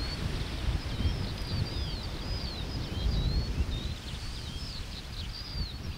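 A songbird singing a continuous string of short whistled notes that swoop up and down in pitch, over a low rumble of wind on the microphone.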